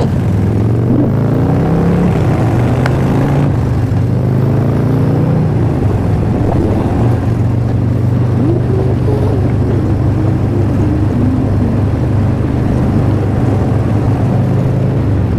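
Harley-Davidson Street Glide's V-twin engine heard from the rider's seat, picking up speed over the first few seconds with rising pitch, then holding a steady cruise.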